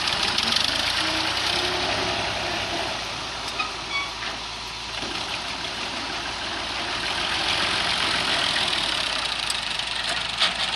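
Heavy vehicle's diesel engine running steadily, its sound building somewhat in the second half.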